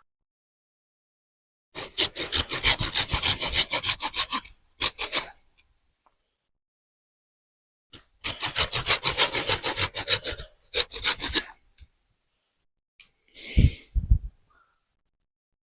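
Hand saw cutting through wood, quick even back-and-forth strokes in two long runs with a short pause, and a brief shorter burst of scraping with low thuds near the end.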